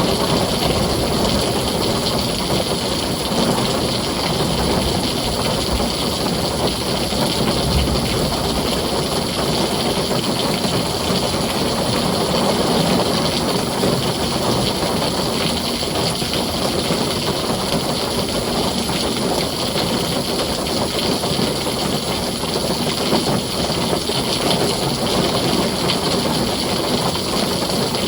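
Heavy rain falling steadily on a tin roof, an even wash of noise without breaks.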